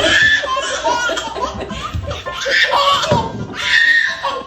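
Laughter in repeated bouts, high-pitched and lively.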